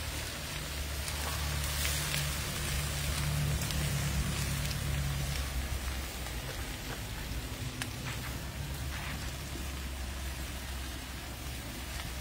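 Vegetables sizzling in hot oil in a pan: a steady frying hiss with a few faint clicks. Under it runs a low hum that is louder for the first few seconds.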